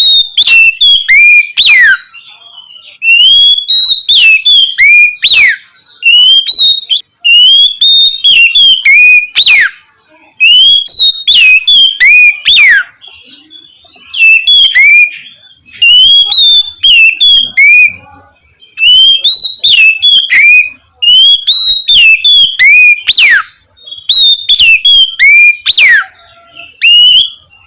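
Oriental magpie-robin (kacer) singing loud, clear whistled phrases. Each bout is a quick run of slurred notes with a sharp falling sweep, about two seconds long, repeated after short pauses.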